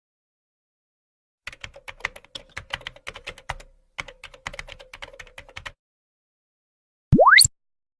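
Computer keyboard typing: a rapid run of key clicks with a brief pause midway, lasting about four seconds. Near the end comes a short, quick upward-sweeping whistle-like tone.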